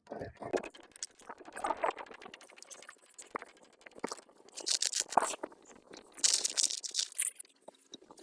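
Polystyrene foam insulation being scraped and broken out of a wall opening: irregular scratching and crunching with small clicks, and two longer hissy scrapes past the middle.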